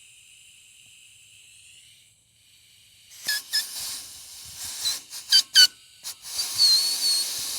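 Air blown by mouth through a rubber vacuum hose in several short puffs and then a longer blow, with squeaky whistling tones as the air forces through the line. Air getting through shows that the line from the charcoal canister to the check valve is open.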